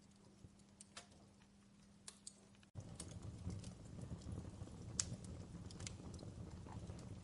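Fireplace crackling: irregular sharp pops and snaps over a soft background. A little under three seconds in it abruptly turns louder, with a low rumble of the burning fire under the pops.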